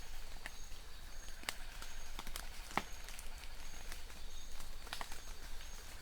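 Steady rain with large drops tapping and dripping irregularly, and a short high chirp repeating about twice a second in the background.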